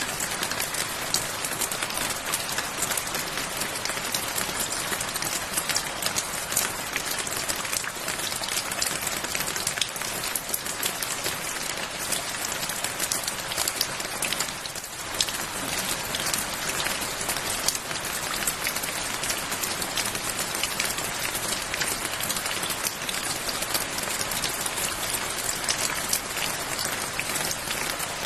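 Steady rain falling, an even hiss with many small drop ticks, dipping briefly about halfway through.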